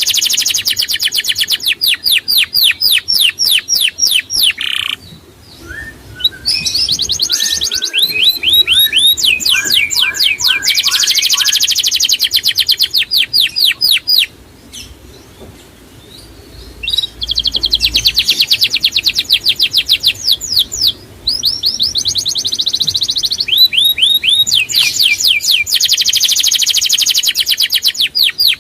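Songbird singing long, rapid trills of high, evenly repeated notes, each run lasting several seconds, with short pauses between runs. A few softer, lower chirps come between about six and ten seconds in.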